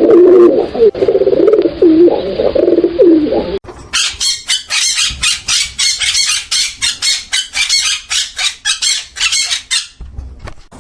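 Birds cooing in low, wavering calls; after a sudden cut, a fast, steady run of high chirps, several a second, that stops shortly before the end.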